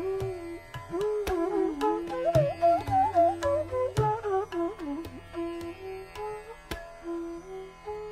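Background music: a bansuri flute playing an ornamented melody in raga Bhopali, gliding between notes, over plucked-string strikes and tabla.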